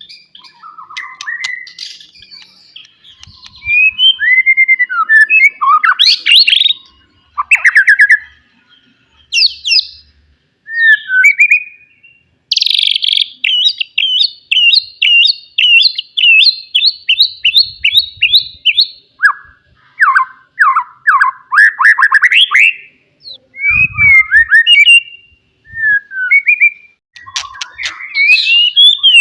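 White-rumped shama singing a loud, varied song of whistled phrases, sweeping up and down, with short pauses between phrases and a long run of quick repeated notes near the middle.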